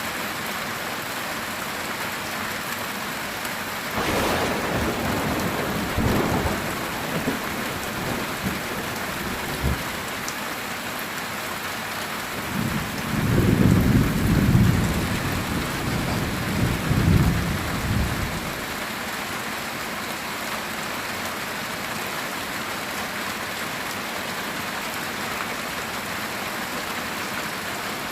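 Heavy rain drumming steadily on a metal tin roof, with thunder: a sudden crack about four seconds in, scattered rumbles after it, then a longer, louder rumble from a little before halfway that dies away about two-thirds through.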